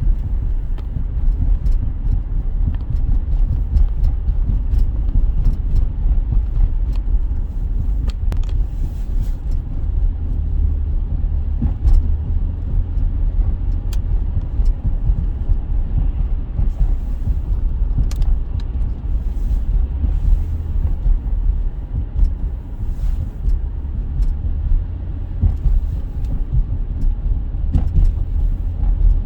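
Steady low rumble of a car driving, road and engine noise heard from inside the cabin, with a few faint clicks.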